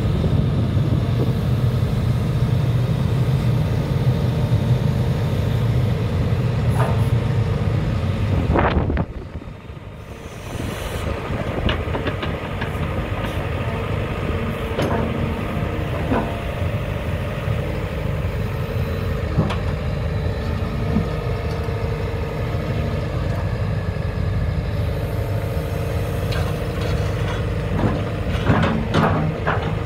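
JCB JZ141 LC tracked excavator's diesel engine running steadily, with a sharp dip in level about nine seconds in before it builds back up, and occasional short knocks.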